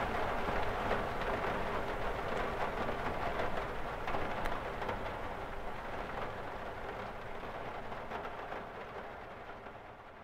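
Rain falling on a cathedral window: a steady, even hiss of drops over a low rumble, gradually fading out over the last few seconds.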